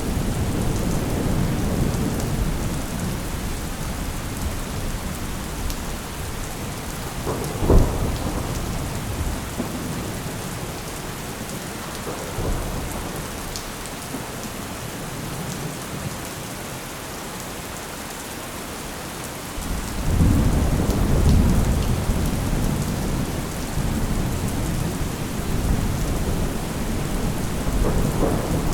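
Thunderstorm: steady heavy rain with rolling thunder. A sharp thunderclap about a quarter of the way in, the loudest moment, and a deep rumble that breaks in suddenly about two-thirds of the way through and slowly dies away.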